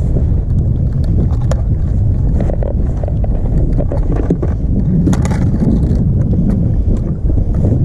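Wind buffeting the microphone on an open boat, a steady low rumble, with scattered sharp clicks and taps on top.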